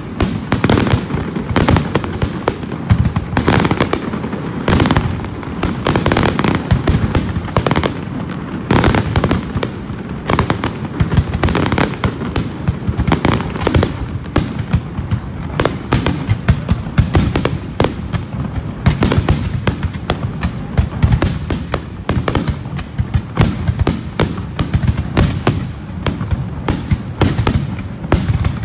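Fireworks display heard close to the launch area: aerial shells launching and bursting in rapid succession, a dense run of booms and crackles with hardly a gap.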